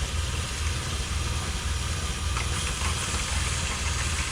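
A trailer faucet running steadily with a hissing flow while the RV's 12-volt freshwater pump hums underneath with a low pulsing drone, pushing sanitizing cleaner through the water lines.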